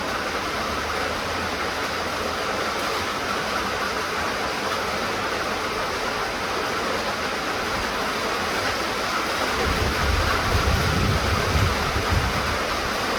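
Steady rain falling, an even hiss. About ten seconds in, a low rumble swells for a few seconds and then fades.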